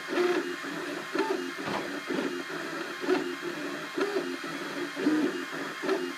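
Cubify 3D printer's stepper motors whining during a print, in short tones that jump from pitch to pitch as the print head changes moves, with a louder peak roughly once a second.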